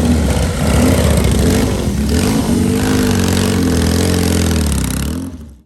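Motor-vehicle engine running, its pitch wavering up and down; the sound fades out quickly near the end.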